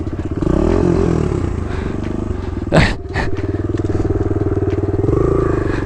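Kawasaki KLX110 dirt bike's small single-cylinder four-stroke engine running, its pitch swinging up and down about a second in, then running steadily. Two sharp knocks come about three seconds in.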